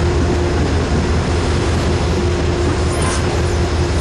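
Metro-North commuter train cars moving past close by along the platform: a loud, steady rumble with a constant humming tone.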